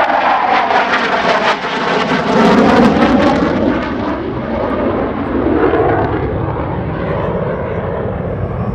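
F-16 fighter jet flying past, its jet engine noise loud with a sweeping, rippling tone, strongest about two to three seconds in and then easing off.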